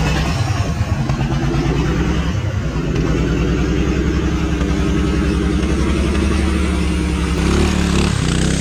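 Doodlebug minibike's Predator small engine running under throttle: it revs up about two to three seconds in, holds a steady higher pitch, then drops back off near the end.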